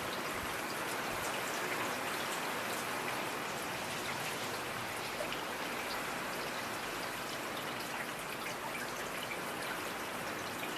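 Steady rain falling, with many small drops ticking irregularly on top of an even hiss.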